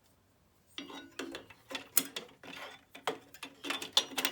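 Sharp clicks, knocks and rattles of table-saw accessories being handled and clipped into the saw's onboard storage, a quick string of a dozen or so, some with a short metallic ring, starting about a second in.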